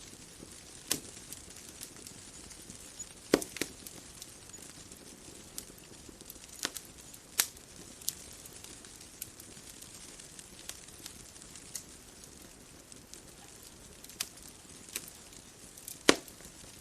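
Wood fire crackling: irregular sharp pops and snaps over a soft steady hiss, with the biggest pops about three seconds in and near the end.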